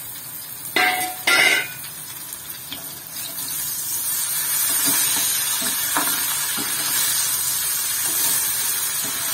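Raw banana slices frying in a black iron kadai while a perforated steel spatula stirs and scrapes them. There are two loud metal scrapes about a second in. From about four seconds on a steady sizzle rises and holds, with a few light taps of the spatula.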